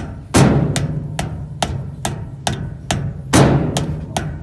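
Repeated hammer blows knocking a washing-machine part flush, about two a second, with two heavier blows that leave a low ringing boom.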